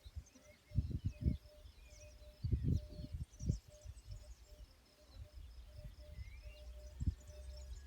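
Outdoor natural ambience: small birds chirping and twittering, with a low note repeating about three times a second, and several brief low rumbles, the strongest about a second in and about two and a half seconds in.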